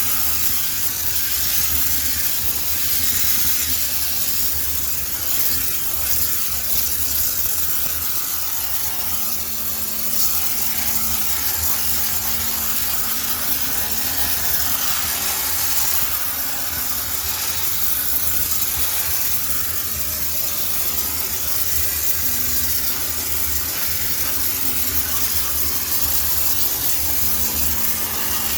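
High-pressure steam cleaner jetting steam into a washing machine's drum to sterilise it: a steady loud hiss with a low hum underneath.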